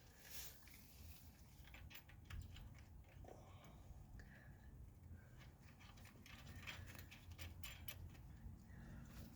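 Near silence with faint scattered metal clicks of nuts and lock washers being threaded onto suspension bolts by hand.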